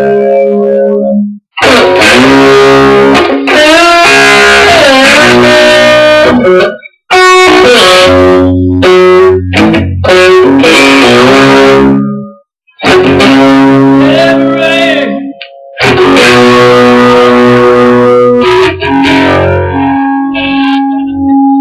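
Guitar-led instrumental music with some notes bent in pitch. It cuts off sharply into silence about four times and starts again each time.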